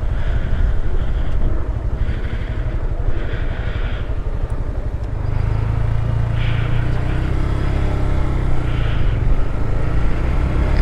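Honda Grom's single-cylinder engine running while the motorcycle is ridden along the road, with wind rushing across the helmet-mounted microphone. About halfway through, the engine note becomes steadier and stronger.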